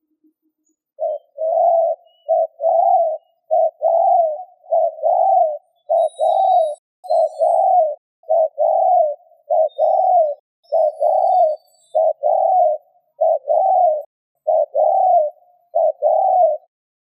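Spotted dove (chim cu gáy) cooing its 'gù' call: about a dozen low coos, each a short note followed by a longer arched one, one pair about every second. This is the call keepers play to rouse a caged dove into calling. A few faint, high chirps come in near the middle.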